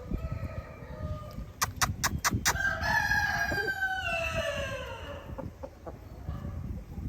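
Shamo gamefowl rooster crowing: a faint short call, a quick run of five sharp claps, then one long crow that falls in pitch at its end.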